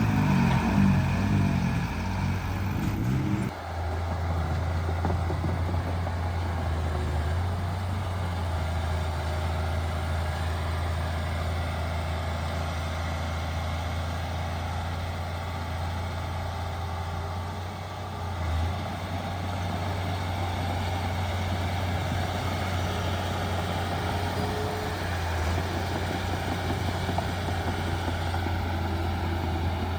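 Heavy diesel engine of earthmoving machinery running. A wavering engine note in the first three seconds or so gives way abruptly to a steady low drone.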